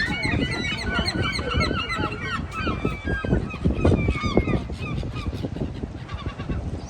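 A large flock of birds calling together, many short overlapping calls with no pause, over an uneven low rumble.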